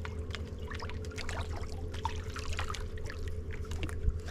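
Many small, irregular splashes and plops at the water surface as a shoal of roach feeds on bread, over a steady low hum.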